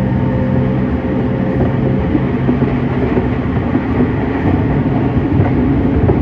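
Two E231 series electric commuter trains running at speed side by side, heard from inside one of the carriages: a steady hum that fades in the first couple of seconds, then loud wheel-on-rail rumble with rapid clatter.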